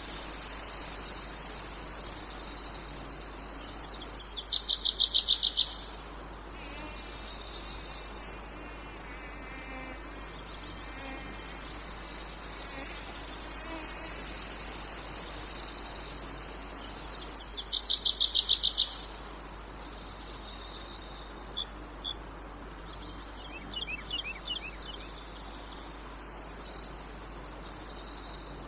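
A chorus of insects keeps up a steady, high-pitched trill. About five seconds in, and again around eighteen seconds in, a louder, rapidly pulsed chirp rings out for a little over a second, with fainter chirps in between.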